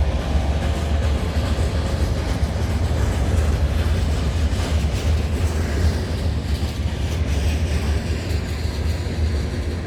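CN freight train rolling past: a continuous rumble of locomotives and freight cars on the rails, with some clickety-clack of wheels over the track.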